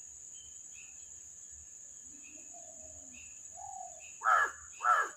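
A steady high insect drone, like crickets, runs under faint bird chirps, and a crow caws twice near the end.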